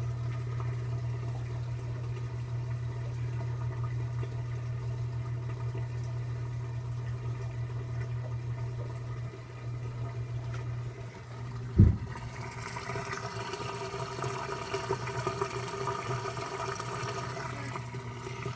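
2012 LG top-load washer draining at the end of its wash: a steady low hum for about twelve seconds, a single sharp knock, then water rushing and gurgling out of the tub.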